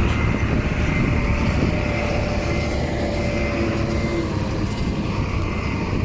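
Heavy diesel earthmoving machinery running steadily under load, a deep engine sound with a thin, steady whine above it.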